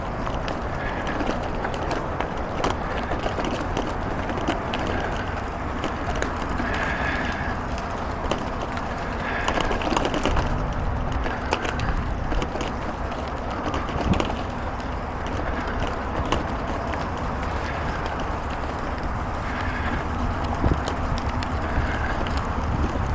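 Bicycle on gravel tyres rolling over a rough trail: a steady rumble of tyre and wind noise with frequent rattles and knocks, and short high chirps every few seconds.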